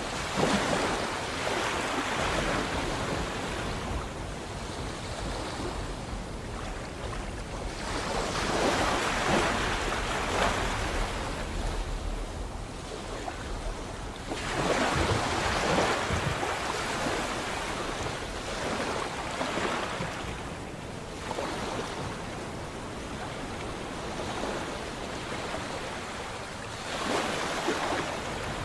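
Sea waves breaking and washing back, swelling and falling every few seconds, with a low rumble underneath in the first half.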